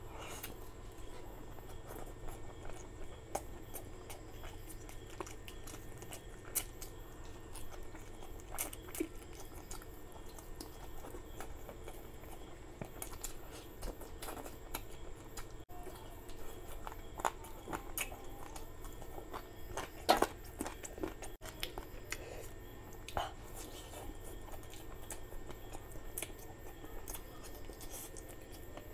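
Close-miked chewing and biting of chicken leg curry and rice, with wet mouth sounds and scattered short clicks, the loudest about twenty seconds in.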